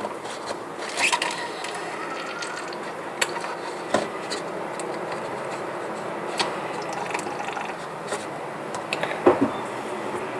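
Continuous scraping of a stick or spoon stirring slime mixture in a container, with a few sharp clicks against its sides.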